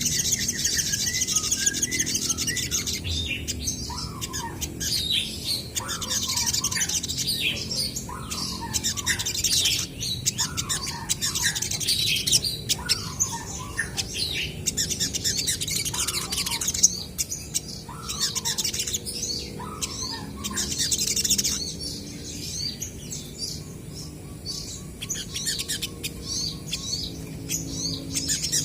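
Olive-backed sunbirds calling back and forth in rapid, high-pitched chirps and twitters. A lower, bending note repeats about once a second through the first two-thirds.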